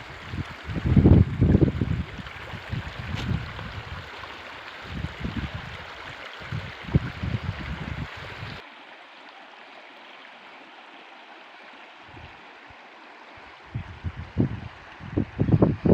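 Steady rush of flowing water with gusts of wind buffeting the microphone. About halfway through the sound abruptly becomes quieter and duller, and the wind gusts pick up again near the end.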